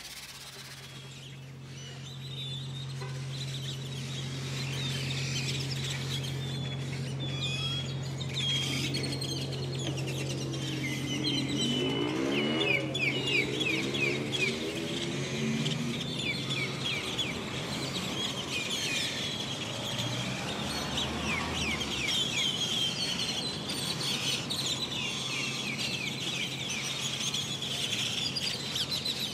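Many small birds chirping in quick, falling notes, as in an outdoor field recording, with a steady low hum under the first half that stops about halfway through.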